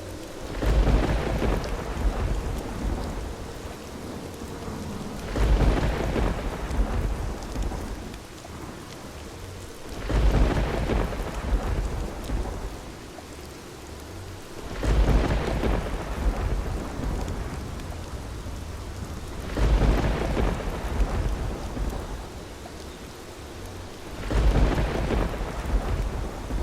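Steady heavy rain with deep rolls of thunder at even intervals, about one every five seconds, six in all, each rumbling for two to three seconds before fading back into the rain.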